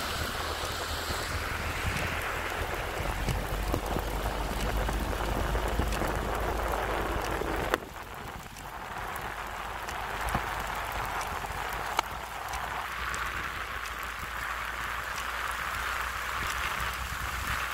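Steady hiss of rain and tyres on a wet road, with a few scattered sharp ticks. A low rumble underneath drops away suddenly about eight seconds in.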